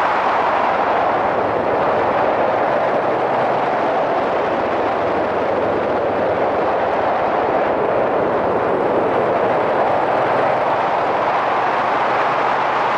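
Steady rush of wind and riding noise on a helmet-mounted camera aboard a moving Yamaha SRX400 motorcycle, its single-cylinder engine running faintly underneath.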